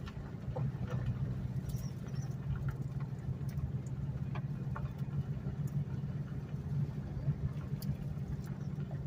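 Vehicle engine running at a steady low hum, with a few faint scattered clicks.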